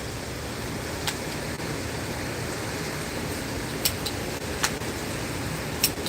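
Steady rushing noise of hurricane wind, with a few light clicks.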